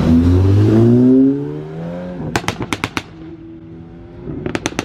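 A car engine accelerating hard, its pitch rising, then fading away as it pulls off. This is followed by two quick volleys of sharp pops and cracks, the first about two seconds in and the second near the end.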